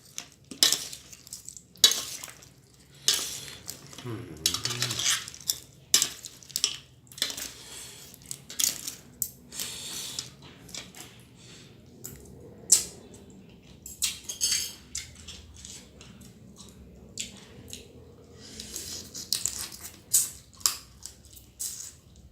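Irregular sharp clicks, cracks and clinks as a blue swimming crab's shell is pulled apart and eaten over a dish, with many small strikes at an uneven pace.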